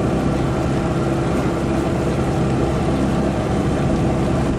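Motorboat engine running steadily at speed: a constant hum under an even rush of noise.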